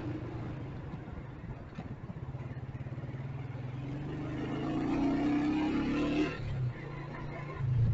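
Motorcycle engine running in traffic. About halfway through it revs up with a rising note, which drops off suddenly near the end as the throttle is released.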